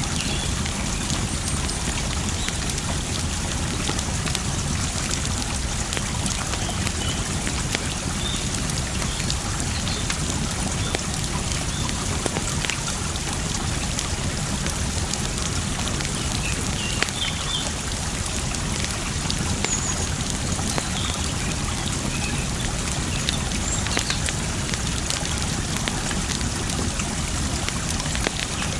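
Running water trickling and splashing steadily, with a wood fire crackling over it in scattered sharp pops.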